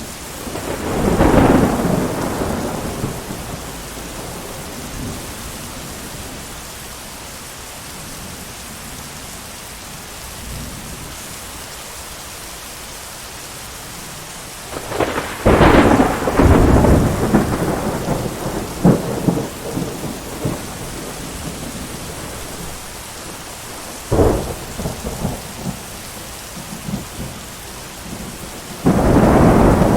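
Thunderstorm: steady heavy rain with thunder breaking over it four times, a sudden crack and long rumble about halfway through being the loudest, with sharper cracks a little later and another peal starting near the end.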